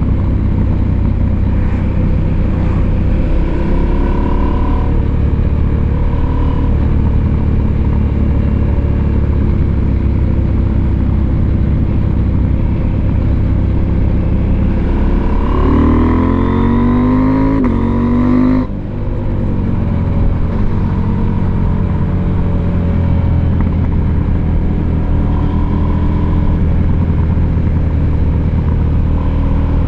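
Husqvarna Norden 901's parallel-twin engine running steadily under way. About halfway through the revs climb, then drop sharply at a gear change, and the engine settles back to a steady pull.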